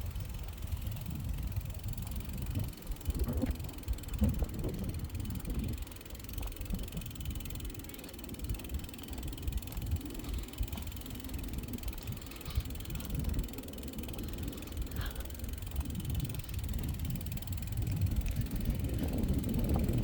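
Wind buffeting the microphone while riding a bicycle along a path: an uneven low rumble that rises slightly near the end.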